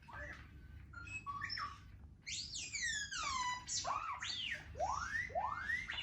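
R2-D2 toy robot beeping and whistling: a string of short electronic bleeps, then a run of quick falling whistles, then several sweeps that rise and fall.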